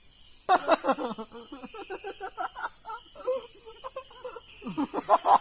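Night insects, crickets among them, chirring steadily at several high pitches, with people talking over them from about half a second in.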